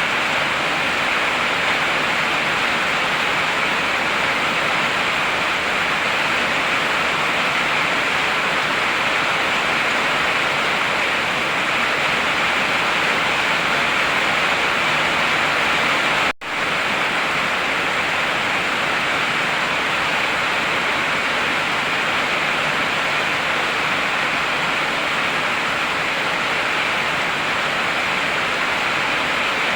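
Heavy rain falling steadily, a dense even hiss with no distinct drops or thunder. It breaks off for an instant about halfway through and resumes at once.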